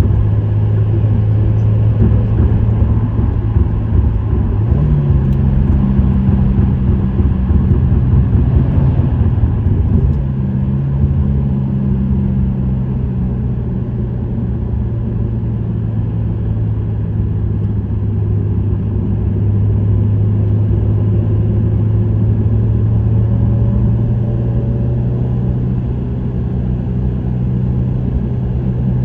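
Subaru WRX STI's turbocharged EJ20 flat-four with an STI Performance muffler, under way at a steady cruise: a low, even exhaust note over road rumble. The pitch rises briefly about five seconds in, then holds steady.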